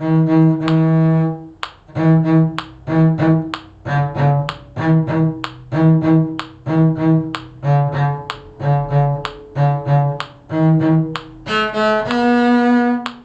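A low bowed string instrument playing a simple melody in separate bowed notes, about one to two a second, moving mostly between two low pitches. The last two notes near the end are higher and held longer.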